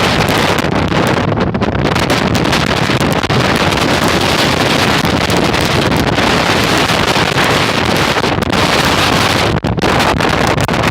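Strong wind blowing hard across the microphone: a loud, steady rush of noise with brief lulls near the end.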